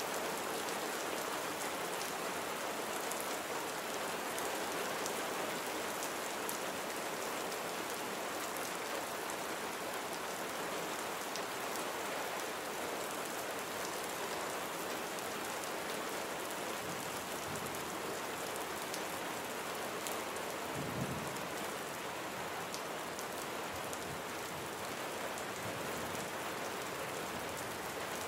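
Steady rain falling on surfaces, with individual drops ticking close by. A brief low rumble rises and fades about two-thirds of the way through.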